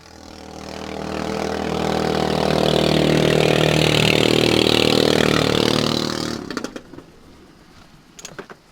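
Boat engine speeding up and running steadily at high revs, then cutting off abruptly about six and a half seconds in.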